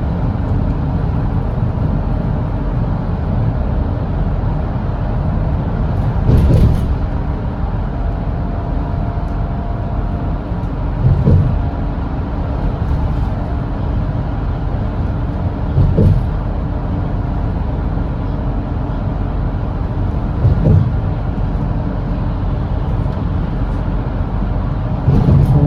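Volvo B8RLE double-decker diesel bus's 7.7-litre inline-six engine running steadily at expressway cruising speed, a constant low drone with road noise. A brief thump comes about every four to five seconds, five times in all.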